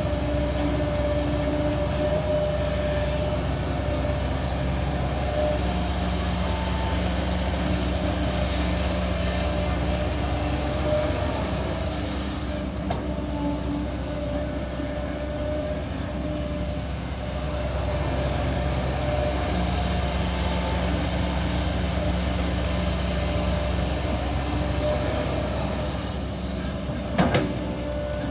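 Kobelco SK140 hydraulic excavator working: its diesel engine and hydraulic pumps running steadily under load, the hum shifting in tone as the arm and bucket move. A sharp knock sounds near the end.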